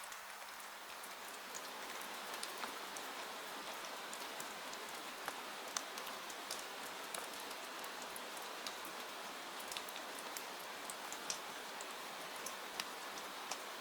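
Steady rain hiss with many scattered, irregular sharp ticks of drops striking a surface.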